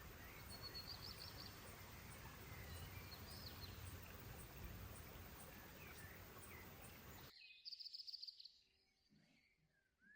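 Faint outdoor ambience: a steady background hiss with birds chirping now and then. About seven seconds in, the hiss cuts off suddenly, leaving one short bird trill and then near silence.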